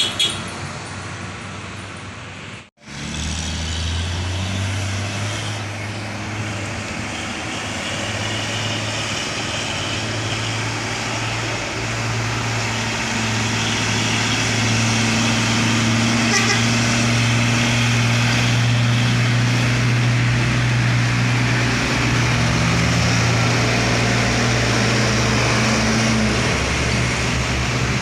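Heavy truck engine labouring under load as a sugarcane-laden truck climbs, a steady low drone that grows louder and then holds. The sound cuts out briefly about three seconds in.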